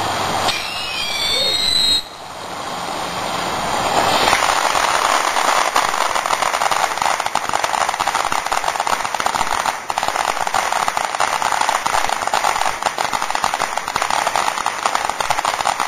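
Consumer firework (Sonic Boom) going off: whistling tones gliding up and down in pitch for about two seconds, then from about four seconds in a dense, continuous crackling.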